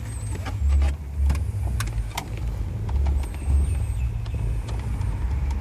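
A low rumble swelling and fading in gusts, with a few sharp clicks and knocks from handling the plastic car-stereo head unit and its wiring as it is worked into the dash cradle.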